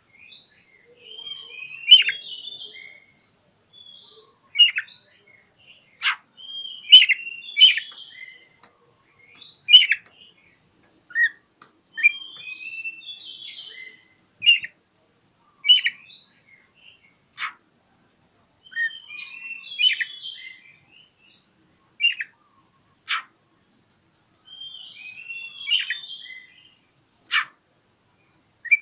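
Oriental magpie-robin (kacer) singing a challenging song, as if seeking a rival. Phrases of rapid chirps and warbles are broken by single sharp, loud notes every second or two, with short pauses between phrases.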